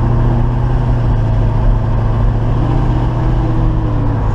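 1972 Chevy Nova's 350 small-block V8 pulling steadily in second gear through its Turbo 350 three-speed automatic, heard from inside the car with road noise under it.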